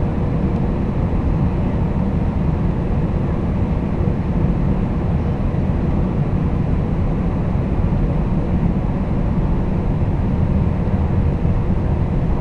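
Steady engine and airflow noise inside the cabin of a Boeing 767-300ER airliner, heaviest in the low range, with a faint steady hum.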